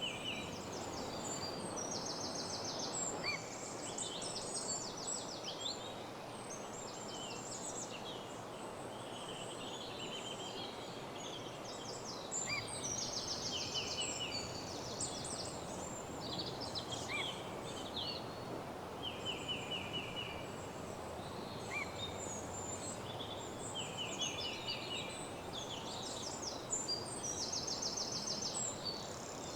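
Woodland dawn chorus: several songbirds singing at once, with rapid trills and short chirps overlapping throughout, over a steady background hiss.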